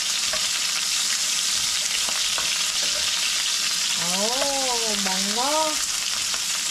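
Garlic and onion sizzling in hot oil in a frying pan, stirred with a metal spoon that gives a few light taps against the pan. A person's voice comes in briefly about four seconds in.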